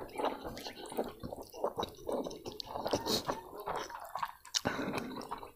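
Wet chewing and lip smacking of someone eating fatty pork trotter with rice by hand: a run of small, irregular clicks and squishes.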